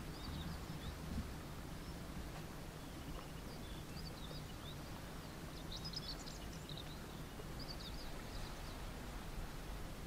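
Small birds chirping in short, high calls, thickest in the middle of the stretch, over a low steady rumble.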